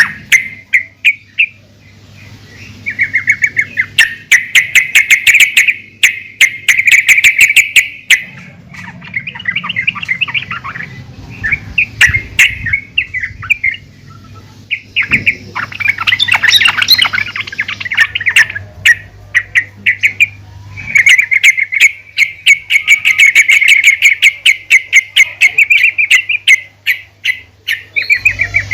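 Yellow-vented bulbul (trucukan), billed as a female, calling in bursts of rapid chattering notes, some lasting several seconds, with short pauses between them.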